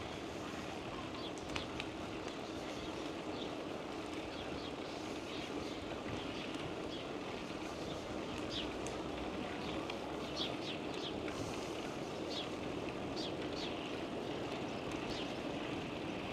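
Small birds chirping in many short, high calls scattered throughout, over a steady rushing noise from the ride.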